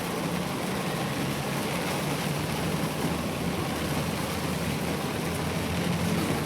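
Heavy rain falling steadily, with the low steady hum of a vehicle engine running underneath.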